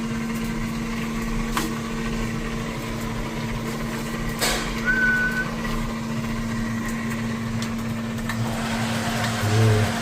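A motor running with a steady, constant hum. There are a couple of faint clicks and a brief high squeak about halfway through.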